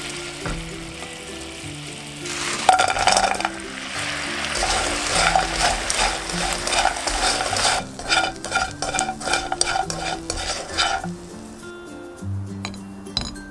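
Sugar syrup bubbling and sizzling in a frying pan, then fried sweet potato cubes stirred and tossed through the hot syrup with wooden chopsticks, the sizzle growing louder a few seconds in. Later the sizzle fades and quick clicks of the chopsticks against the pan take over, dying away near the end. Soft background music underneath.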